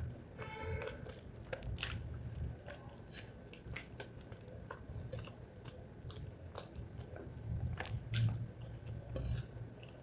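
Close-miked chewing of rice and spicy chicken liver: steady mouth-full chewing with many small wet clicks and smacks, and a brief pitched sound about half a second in.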